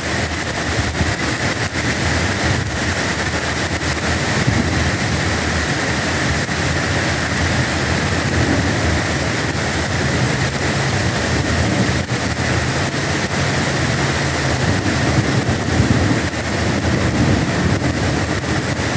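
Heavy downpour of rain, a steady dense hiss of water pouring down and splashing.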